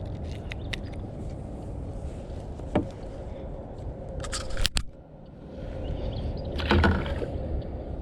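Fishing kayak on the water with its hull and gear being handled: a steady low rumble, a sharp knock about three seconds in, and louder bursts of noise around the middle and again near the end.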